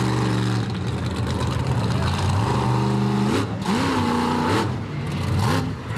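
Monster truck engine running hard, its pitch holding steady and then rising and falling as the throttle is worked.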